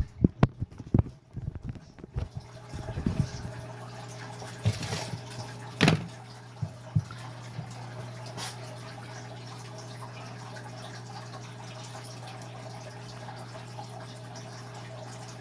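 Hands working in a bowl of cold water, picking the wings off boiled cicadas: a cluster of knocks and small splashes in the first two seconds, then occasional drips and light clicks over a steady low hum.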